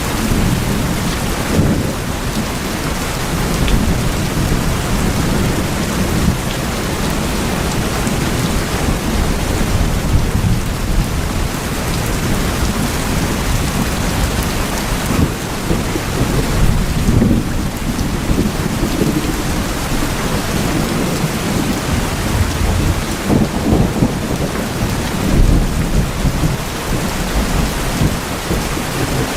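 Heavy rain drumming steadily on tin roofs, over a deep low rumble that swells a few times, strongest about two-thirds of the way through and near the end.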